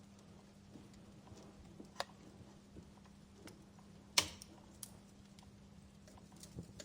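Wood fire crackling quietly, with scattered sharp pops and one louder pop about four seconds in, over a faint steady hum.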